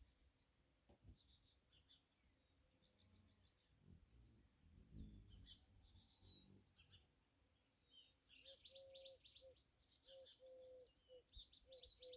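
Faint small birds chirping and trilling, with a series of short, low, evenly repeated call notes joining in during the second half.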